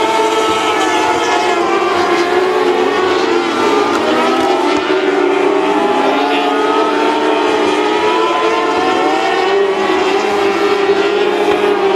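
Several mini sprint car engines racing on a dirt oval at once, their overlapping pitches rising and falling a little as the cars work around the track.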